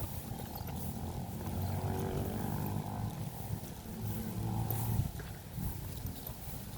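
Strong wind buffeting the microphone: a low rumbling roar with a droning hum that swells through the middle and eases near the end.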